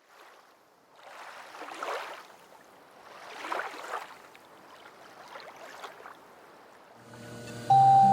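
Water washing in three slow surges that each swell and fade, like waves against a boat hull. Near the end, music with mallet-instrument tones comes in and grows loud.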